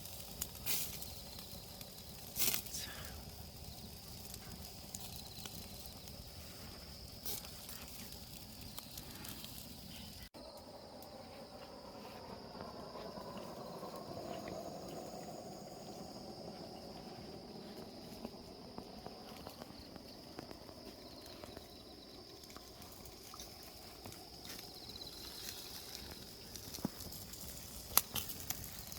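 Whole chickens roasting over oak charcoal, hissing and sizzling faintly, with a few sharp clicks now and then. A steady high-pitched tone carries on under it.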